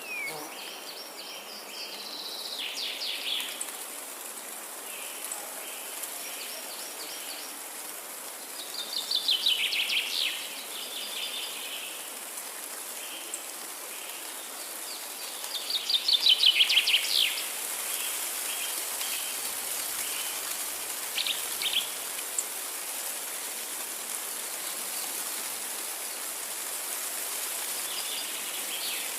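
Forest ambience: a songbird sings three short phrases of rapid repeated notes that build in loudness, with a few shorter calls between, over a steady background hiss.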